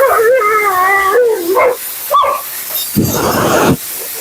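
Siberian husky talking: a wavering, warbling howl-whine for about a second and a half, then a short rising squeak, and a brief rush of noise near the end, over the steady hiss of a pet blow dryer.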